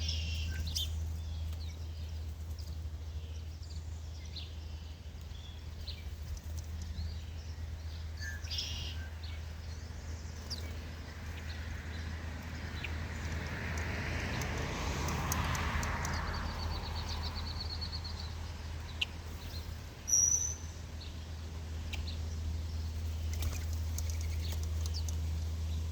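Small birds chirping here and there, with a short trill, over a steady low hum. A broad rushing noise swells and fades in the middle, and a sharp chirp about twenty seconds in is the loudest sound.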